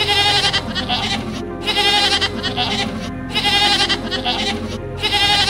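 An animal bleating in repeated calls, each with a wavering quaver, recurring about every second and a half over steady background music.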